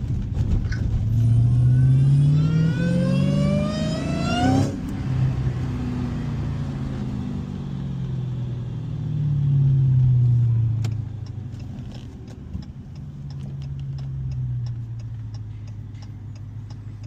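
2015 Dodge Challenger Hellcat's supercharged 6.2-litre V8 accelerating hard, revs climbing for about three seconds and then cutting off sharply. It then runs on at lower revs with another brief swell about ten seconds in, and settles quieter with regular light ticking near the end.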